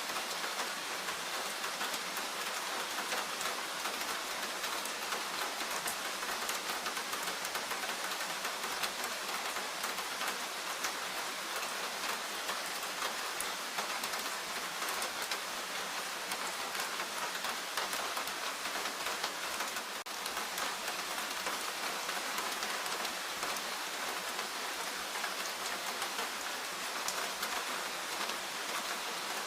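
Steady rain falling in a forest, a dense patter of drops on leaves and the ground with no let-up.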